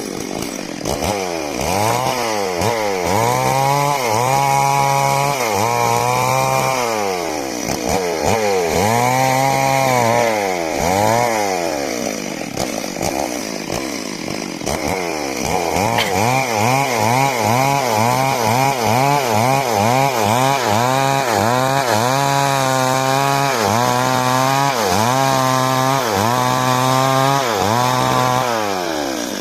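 Two-stroke chainsaw (a "382" model) running under load, its engine pitch rising and falling over and over as it cuts. The pitch sags for a few seconds around the middle, then swings faster and more regularly before dropping off at the very end.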